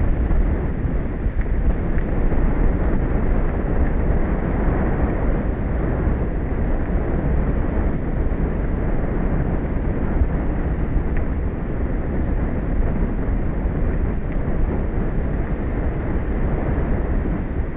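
Steady low rumbling noise of wind buffeting the microphone, with no separate events standing out.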